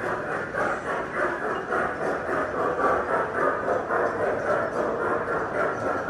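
Model train running along its track: a steady rattle with an even, repeating pulse.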